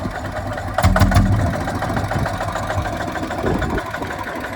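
Kubota ZT155 single-cylinder diesel engine running with a steady, fast knocking beat, swelling louder about a second in and then easing back.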